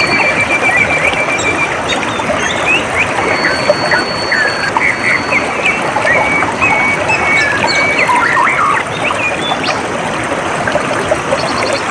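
Water trickling and flowing steadily, with several birds chirping and calling over it: a rapid trill near the start, then many short chirps.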